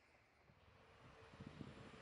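Near silence, then the faint, growing rumble of an approaching SBB passenger train, with a steady whine coming in about halfway through.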